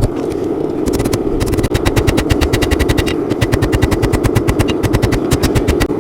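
Rapid, evenly spaced hammer blows on steel, about ten a second, during forging of a drawknife blank, over a steady roar; the blows start about a second in and pause briefly near the middle.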